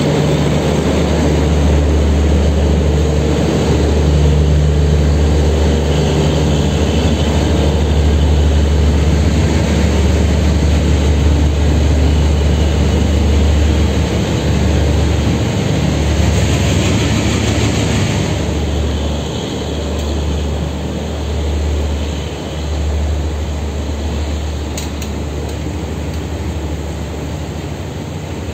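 Passenger coaches of a departing express train rolling past close by: a steady rumble of wheels on rail. It grows a little quieter over the second half.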